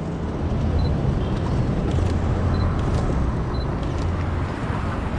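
City street traffic: a steady low rumble of motor-vehicle engines and tyres, with three faint short high peeps.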